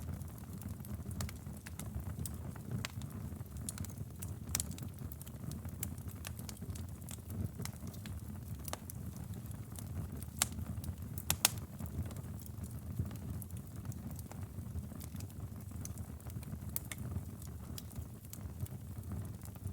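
Wood fire burning in a fireplace: a steady low rumble of flames under irregular crackles and sharp pops, the loudest a quick pair of pops a little past the middle.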